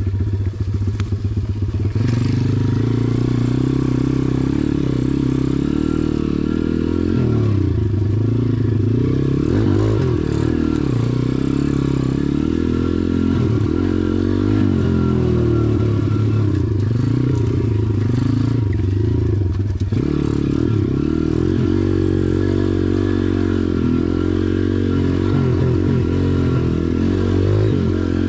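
SSR pit bike's engine running under riding load, revving up and down as the throttle is worked on a dirt trail.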